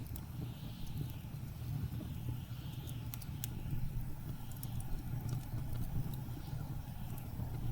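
Blizzard wind blowing with a steady low rumble and slow swells, over a wood fire crackling with scattered sharp pops.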